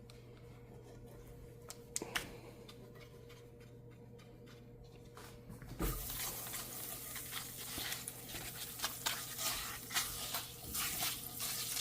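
Butter hitting a hot pan and sizzling: a sudden hiss with crackles sets in about six seconds in and keeps going. Before that there is only a low steady hum and one click.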